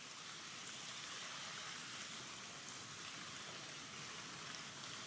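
Light rain falling: a steady soft hiss of fine drops with faint scattered patters.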